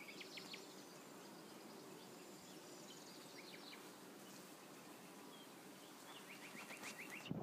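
Faint outdoor background with birds chirping now and then, ending in a quick run of short chirps.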